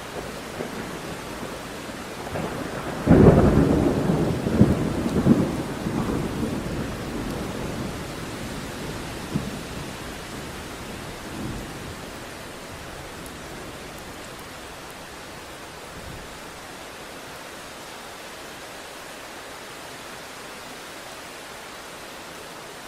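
A thunderclap about three seconds in that rolls on in several surges and fades away over the next several seconds, over steady rain.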